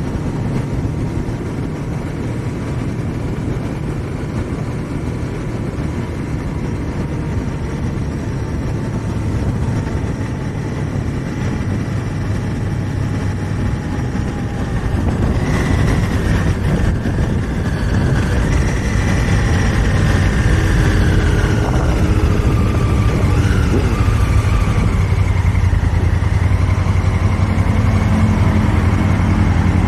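2018 Honda Africa Twin Adventure Sport's parallel-twin engine under way, with wind and road noise rushing over the microphone. About halfway through the engine note falls as the bike slows, and near the end it settles into a steady idle.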